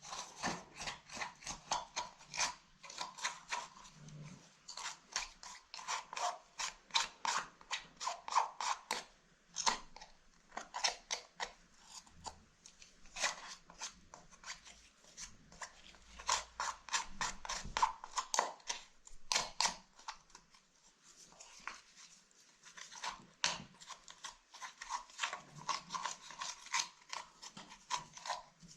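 Quick scratchy strokes, several a second, coming in runs with short pauses: a brush scrubbing dirt off a handbag.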